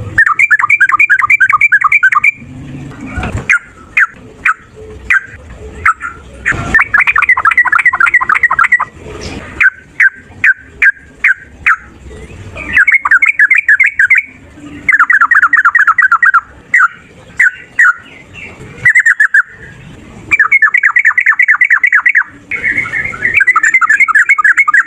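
Male sooty-headed bulbul (trucukan) giving loud, fast chattering 'ropel' fighting calls: runs of quickly repeated notes lasting a second or two, about six runs, with single sharp call notes between them.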